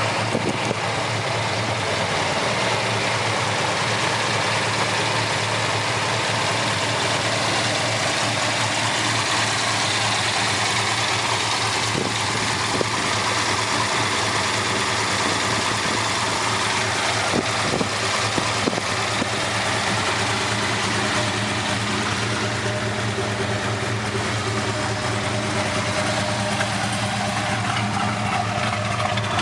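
Dodge Super Bee's V8 engine idling steadily through its exhaust.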